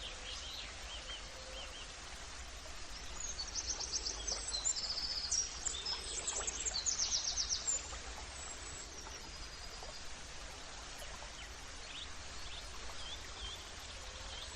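Birds singing over a steady outdoor background hiss, with a burst of rapid high trills and chirps from about three to eight seconds in, and fainter calls before and after.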